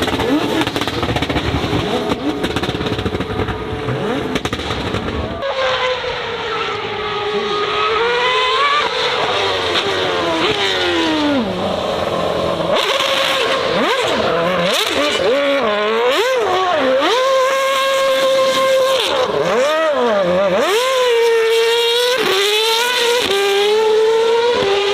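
Aston Martin Victor's V12 engine at full throttle up a hillclimb. A rough, heavy rumble for the first few seconds gives way to a clear engine note that rises and drops again and again through gear changes and lifts off the throttle.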